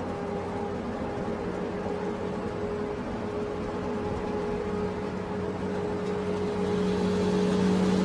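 Motor vehicle engine running steadily with a constant hum, growing slightly louder near the end.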